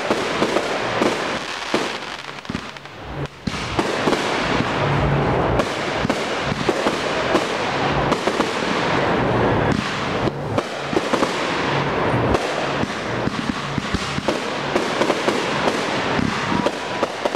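Fireworks display: rapid bangs and crackling from bursting shells, packed close together. It thins out briefly about two seconds in, then goes on densely again.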